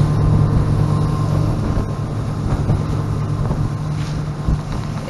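Motorboat engine running steadily under way, a low even drone with wind and water rushing past.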